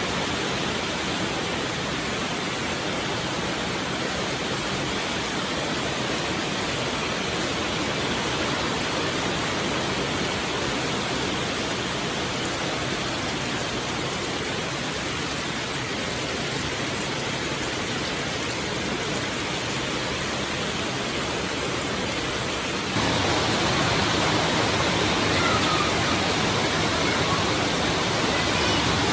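Heavy rain pouring down in a steady hiss, turning suddenly louder a little over three-quarters of the way through.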